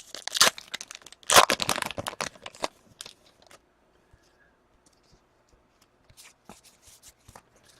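A foil card-pack wrapper being ripped open and crinkled, loudest from about a second and a half to nearly three seconds in, then faint scattered rustles and ticks of cards being handled.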